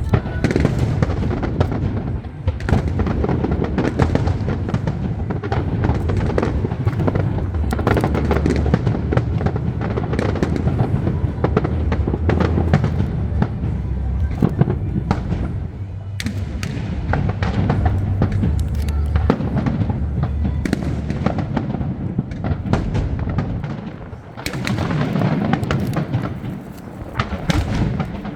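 Fireworks display in full barrage: a dense, continuous run of bangs and crackles over a deep rumble of booms, easing briefly near the end before firing up again.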